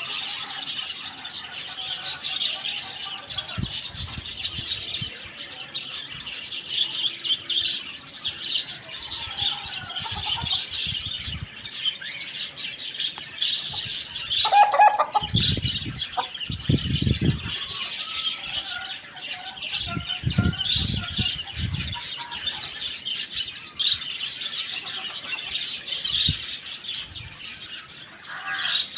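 Many small birds chirping and chattering continuously in a dense, high-pitched chorus. A short lower call comes about halfway through, and low thumps come in patches, strongest just after the middle.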